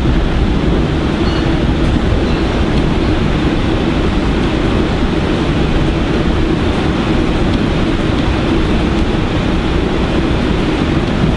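Steady running noise inside a Metro-North New Haven Line electric commuter train car as it moves along the track: an even rumble and rush with no breaks.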